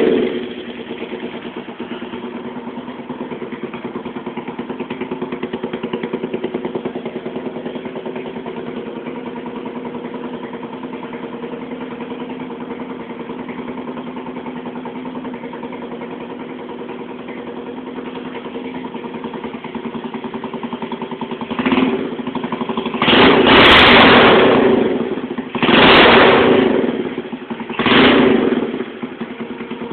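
Yuki Vista 125 scooter engine through a new tuned aftermarket exhaust, settling from a fresh start into a steady idle, then revved four times in short blips near the end, the second one the longest, before dropping back to idle.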